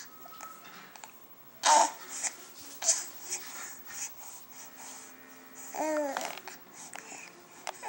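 A nine-week-old baby cooing and babbling in short separate sounds. The loudest comes about two seconds in, and a longer pitched coo that bends in pitch comes near six seconds.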